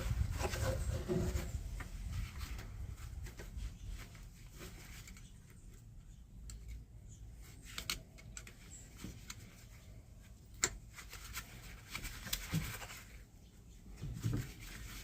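Small scrapes and scattered clicks of hands working parts by hand, rustling at first and then sparse. One sharper click comes about two-thirds of the way through.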